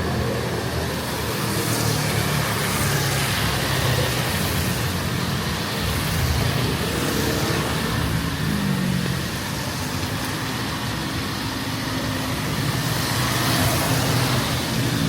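Street traffic: motor vehicle engines running close by under a steady hiss, with an engine's pitch rising near the end.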